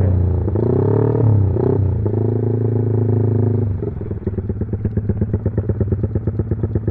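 Motorcycle with a Norifumi racing exhaust being revved: the pitch swings up and down twice, holds high, then drops about four seconds in to a lower idle with an even, pulsing exhaust beat.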